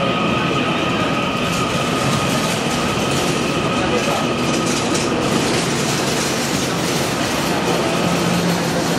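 A TEMU2000 Puyuma Express tilting electric train runs past along a station platform: a continuous train noise with a steady high whine over it.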